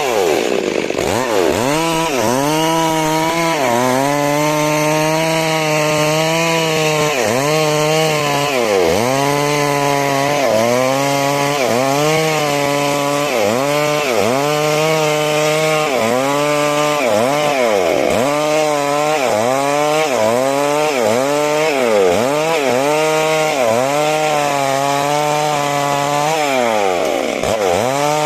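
Chainsaw cutting timber into 6 cm × 6 cm rafters, running continuously at high revs. The engine pitch dips and climbs back about once a second as the chain loads up in the cut.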